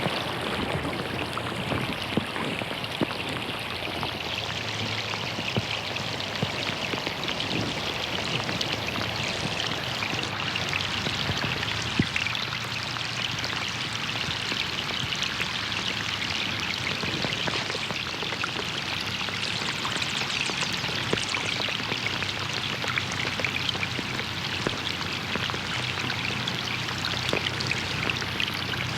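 Rain falling on a pond: a steady, dense patter of drops on the water surface.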